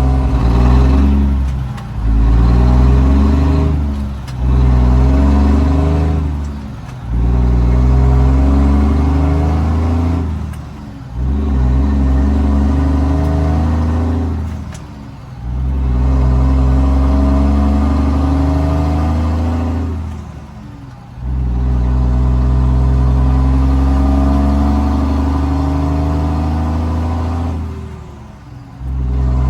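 Straight-piped Cummins L10 inline-six diesel in a Ford L9000 dump truck pulling up through the gears. The exhaust note drops away briefly at each shift, about seven times, with the pulls between shifts growing longer.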